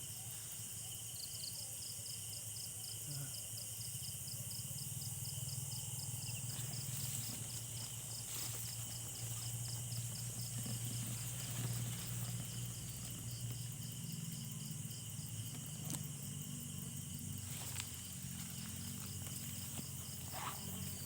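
Night insect chorus: crickets and other insects chirring steadily at a high pitch, with a fast pulsing trill that fades after the first six seconds or so. A low steady hum runs underneath.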